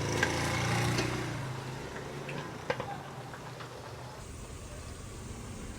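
A motor vehicle's engine passing close by, its low hum swelling in the first second and fading away by about two seconds in, with a few light clicks and taps.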